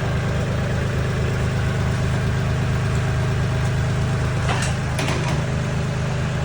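Tractor engine idling steadily, with two or three short knocks or clanks a little past the middle.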